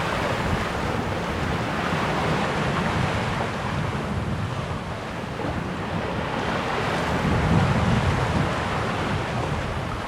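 Steady wind rushing over the microphone, mixed with water washing past the hull of a sailboat under way. It swells slightly about eight seconds in.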